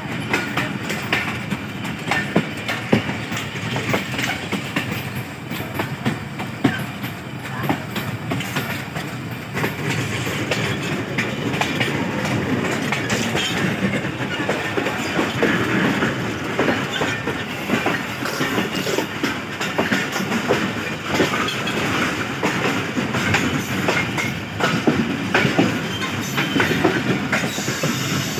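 Passenger train coaches running along the line, the wheels clicking over the rail joints over a steady rumble and rush of noise, heard from the side of a moving coach.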